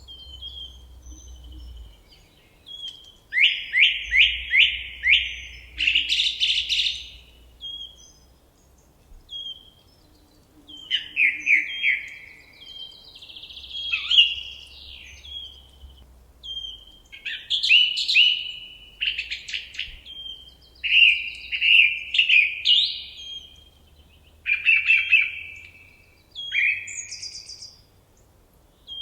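Songbirds singing: a string of short phrases, each a quick run of repeated chirping notes, with brief pauses between phrases.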